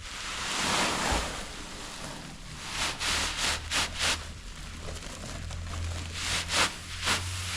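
Wind buffeting the microphone, swelling in the first couple of seconds, with a run of short sharp rustles about three to four seconds in and a few more near the end.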